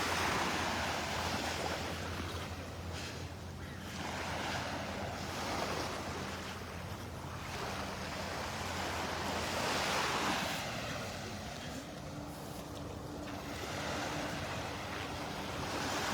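Small Gulf of Mexico waves breaking and washing up the beach, the surf swelling and easing every few seconds.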